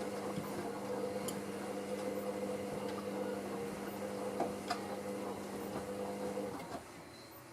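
Hoover SIX AAA160 washing machine running early in its Speed Wash cycle: a steady hum with light ticks, which stops suddenly about six and a half seconds in.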